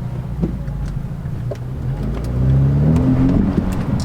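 Car engine accelerating over a steady low road rumble: from about halfway its pitch climbs and it grows louder, then the pitch falls back near the end.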